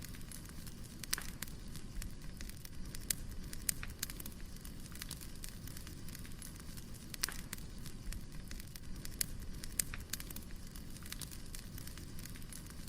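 Wood fire burning: irregular sharp pops and crackles of the firewood over a steady low rumble of flames.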